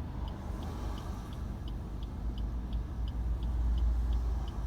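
Car turn-signal indicator ticking steadily about three times a second inside the cabin, over a low vehicle rumble that swells a little near the end.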